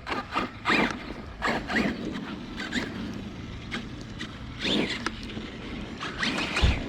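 Arrma Kraton 6S electric RC car's brushless motor revving in short bursts, with brief rising whines and tyre noise on wet ground. A single thump comes near the end.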